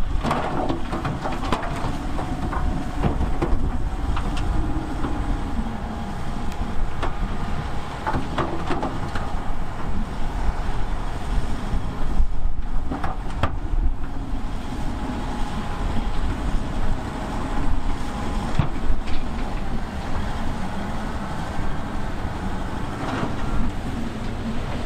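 A bulldozer's diesel engine running steadily under load as it works, with several sharp metallic clanks from the machinery.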